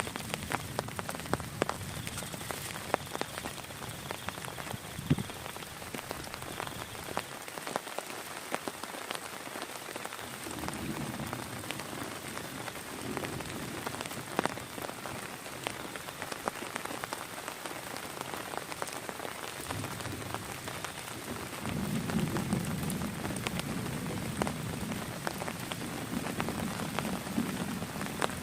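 Heavy rain falling steadily, with many individual drops striking sharply close by. A low rumble swells up around the middle and again from about three-quarters of the way through.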